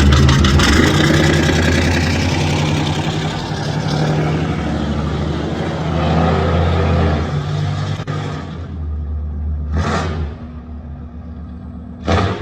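A lifted truck's engine and exhaust running loudly, then dropping off about eight seconds in, with two short loud bursts near the end.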